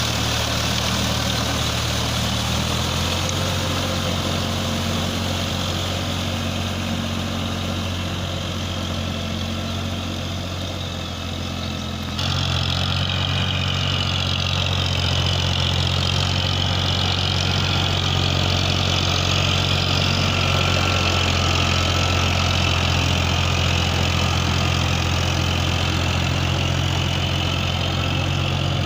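Eicher 557 tractor's diesel engine running steadily. About twelve seconds in, the sound jumps abruptly to a slightly louder, different steady note.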